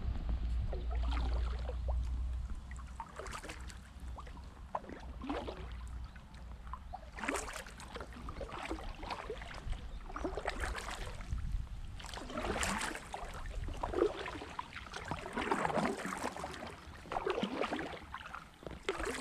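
Kayak paddle blades dipping and splashing in calm river water, a stroke every second or two, with some wind rumble on the microphone in the first couple of seconds.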